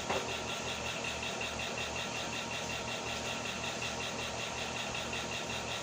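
Steady mechanical hum with a fast, even flutter, holding unchanged throughout.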